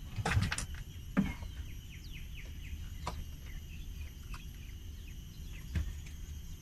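A bird calling in a quick series of short, falling chirps over low background rumble, with a few soft knocks.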